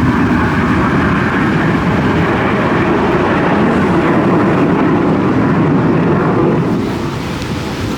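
Display aircraft flying past, a loud steady engine noise that eases off about seven seconds in.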